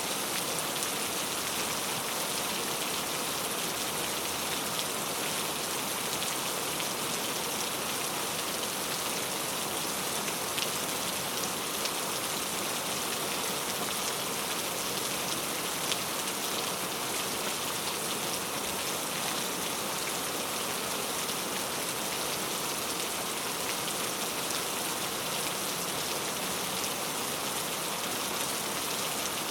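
Heavy rain falling on mango tree leaves: a steady dense patter of drops striking the leaves, with scattered sharper individual drop hits.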